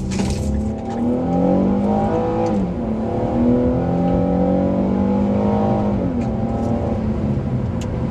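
A 2009 Infiniti M35's 3.5-litre V6 engine and exhaust, heard from inside the cabin, accelerating hard. The pitch climbs, drops back at an upshift about two and a half seconds in, then climbs again to a second upshift near six seconds.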